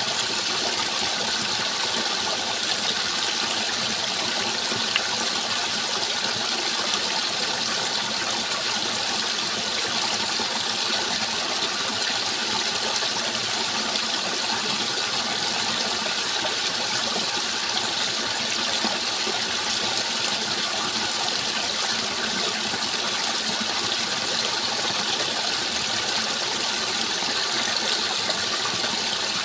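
Steady rushing water, an even unbroken flow with no pauses or surges.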